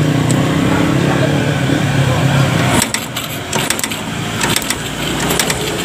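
STX125 motorcycle engine turning over with a steady hum that cuts off abruptly about three seconds in, followed by scattered sharp clicks and crackles.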